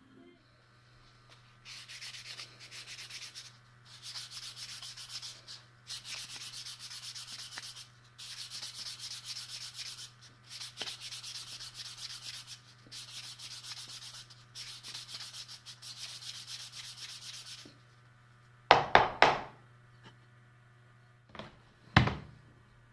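Sandpaper rubbing on MDF in a run of strokes a second or two long with short pauses between them, followed near the end by a few loud knocks.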